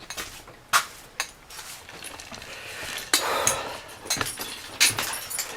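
A few sharp knocks and light metallic clinks and jingles, spaced irregularly, with a short rustling stretch about three seconds in.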